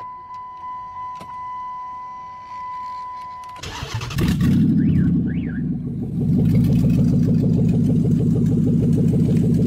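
A car's steady high warning chime pulses softly, then about three and a half seconds in the engine cranks and fires, with two short squeaks as it catches, and settles into a loud, steady run.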